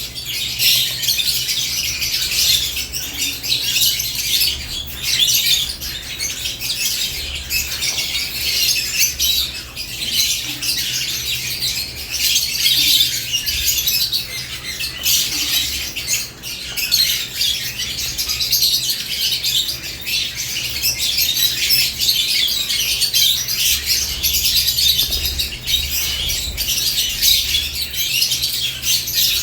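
Lovebirds chattering in a cage: a dense, continuous mix of high-pitched chirps and squawks from several birds, with a few short clicks and some wing flapping.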